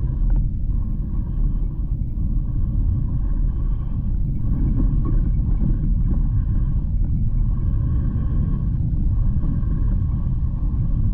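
Steady low rumble of a Himiway Cobra fat-tyre e-bike riding over rough forest ground, with a faint whine from its motor that comes and goes every second or two.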